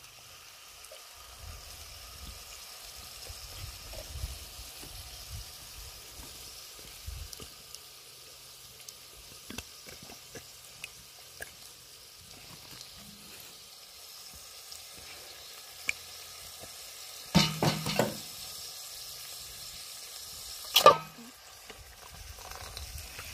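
Mince frying with a gentle sizzle in a cast iron pot over a wood fire while canned peeled tomatoes are poured in. Two loud knocks near the end as the tin can strikes the pot.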